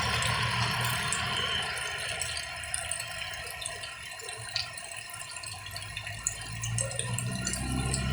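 Rain falling, a steady hiss with scattered drop ticks that eases in the middle. A low engine-like hum is there at the start and comes back near the end.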